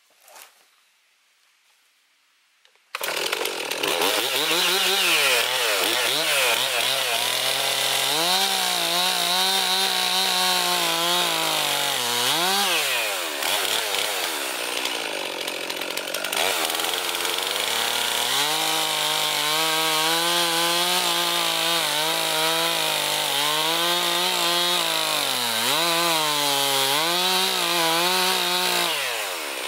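Chainsaw starting up suddenly about three seconds in, after near silence, then running and cutting into a large log, its engine pitch dipping repeatedly under load and rising again.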